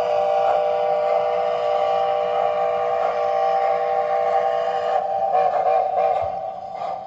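Steam whistle from an MTH 3-truck Climax model locomotive's Proto-Sound 3.0 sound system: one long, steady multi-note blast that wavers and fades out near the end.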